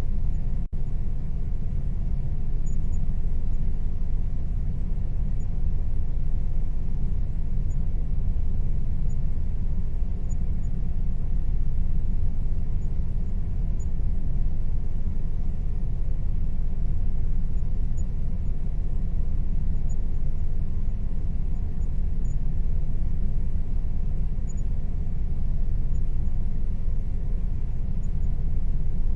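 Air conditioner running steadily: a constant low rumble and hum with a faint steady tone above it.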